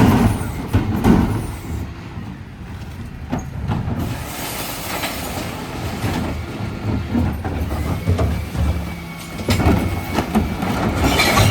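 Dennis Elite refuse lorry running, with a steady low rumble broken by several sharp clanks and knocks. A faint thin whine comes in for a couple of seconds late on.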